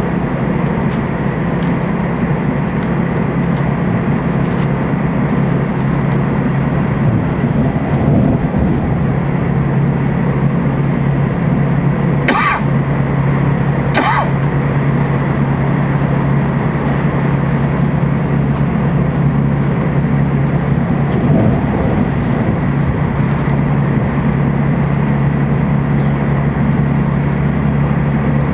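Inside the passenger car of a TEMU2000 Puyuma electric express train at speed: a steady rumble of wheels on rail with a low hum. About halfway through come two brief hissing whooshes, under two seconds apart.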